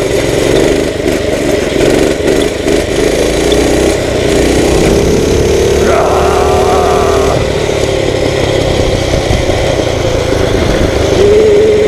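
Dirt bike engine running at road speed under a steady rush of wind on the microphone. Its note climbs gradually around the middle, then holds steady and grows louder near the end.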